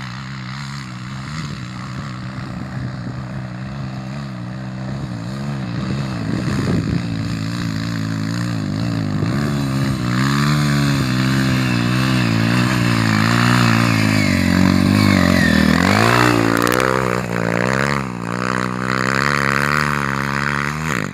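Trail motorcycle engine revving hard under load on a steep hill climb, the revs rising and falling with the throttle. It grows louder over the first ten seconds or so as the bike comes closer.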